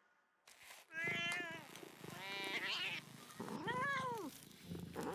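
Cat meowing, three drawn-out meows that rise and fall in pitch, starting about a second in.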